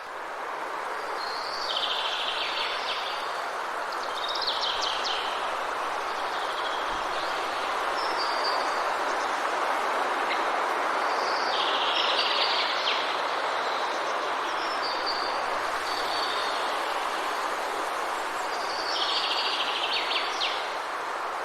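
Forest ambience: a steady rushing of water, such as rain or a stream, with a songbird singing over it. The bird repeats a short, chirpy phrase about every eight to ten seconds, with a few shorter notes between.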